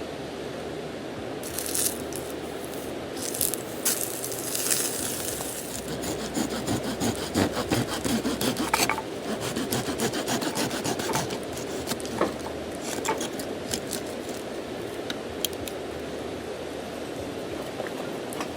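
Repeated scraping or rubbing strokes, with a few sharp clicks among them, over a steady hiss. The strokes come thickest around the middle, then thin out.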